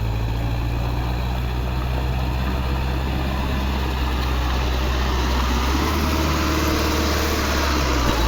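Sonalika Tiger 60 CRDi tractor's diesel engine running steadily with a deep, even note; its note shifts a little over halfway through.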